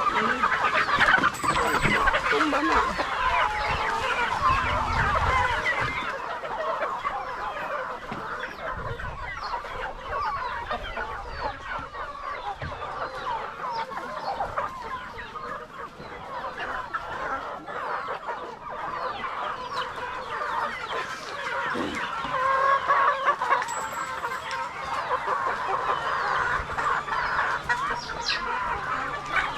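A flock of Rhode Island Red chickens clucking continuously, many birds calling over one another.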